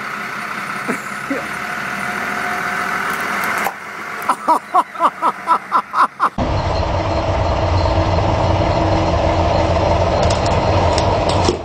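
Truck engine running as the truck rolls forward, growing louder. In the middle there is a quick run of about eight short repeated tones, about four a second, and then the engine sounds louder and closer.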